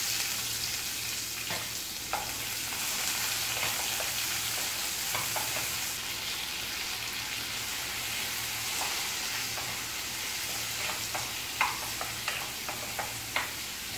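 Chopped onion, tomato and green chilli frying in hot oil in a nonstick kadai: a steady sizzle, with the scrape and tap of a spatula stirring, more frequent in the last few seconds.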